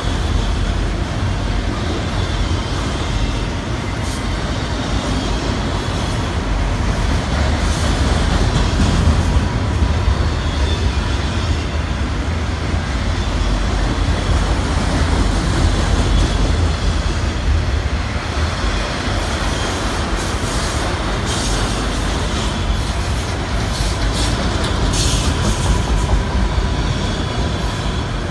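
Autorack freight cars of a freight train rolling steadily past: a continuous rumble and rattle of steel wheels on rail, with a few sharp clicks in the later seconds.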